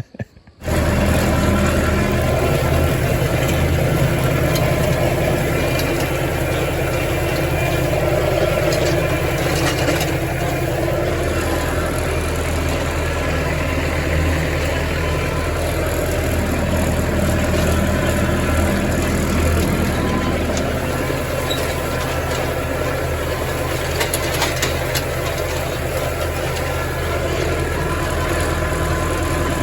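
Massey Ferguson farm tractor engine running steadily at working speed while pulling a rotary hay tedder. It starts abruptly about half a second in.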